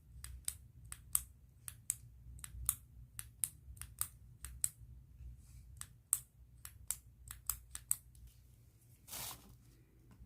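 Pen making a run of sharp, irregular clicks, about two or three a second, then a short rustle about nine seconds in.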